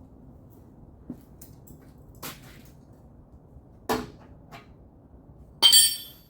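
A few light knocks and clicks, then a louder clank that rings briefly near the end, like metal tools or parts being handled and set down.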